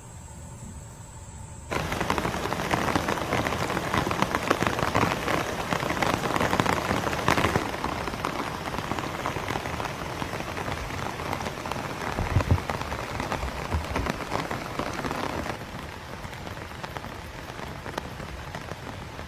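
Steady heavy rain falling on leaves and surfaces, a dense crackling hiss of many drops that starts abruptly about two seconds in after a quieter hiss. A brief low rumble comes around the middle, and the rain eases a little a few seconds before the end.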